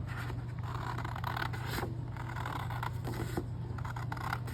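Paper and cardstock sheets being handled, shuffled and slid against each other in irregular rustles, over a steady low hum.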